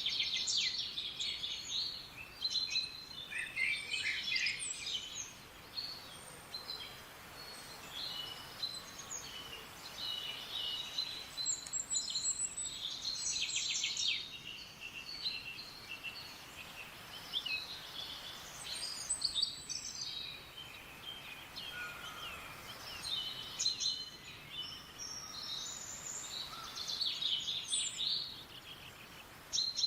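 Wild forest songbirds chirping and twittering: many quick, high calls, several birds overlapping, over a faint steady background hiss.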